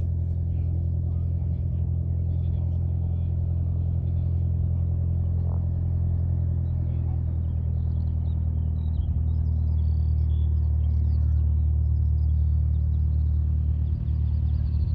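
Steady low engine drone that holds an even pitch and level throughout.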